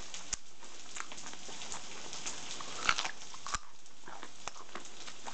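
Someone biting and chewing a raw carrot close to the microphone: irregular crisp crunches, the loudest about three seconds in.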